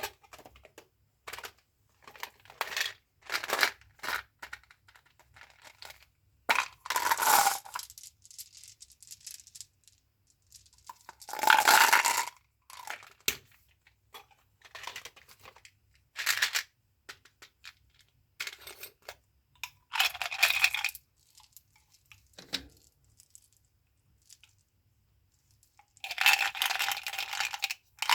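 Gum and candy packaging handled close up: wrappers crinkling and tearing, with small clicks and taps, in separate bursts with short pauses between them, a few of the bursts lasting about a second.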